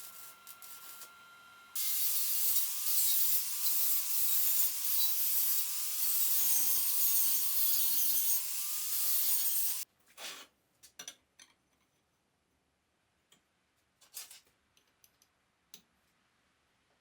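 Belt grinder grinding: a loud rasping hiss from about two seconds in, over a motor hum whose pitch wavers and sags as the work is pressed to the belt. It stops abruptly about ten seconds in, followed by a few scattered knocks and clicks.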